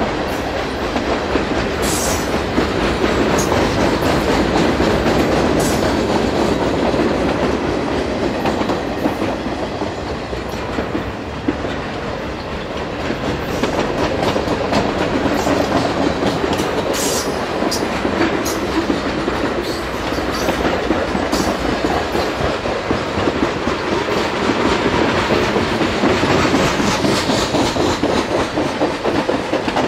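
Freight cars of a mixed CPKC freight train (boxcars, tank cars, covered hoppers and gondolas) rolling past at track speed: a steady rumble and rattle of steel wheels on the rail joints, with occasional sharp clicks.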